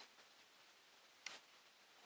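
Near silence, with a single short click about a second and a quarter in.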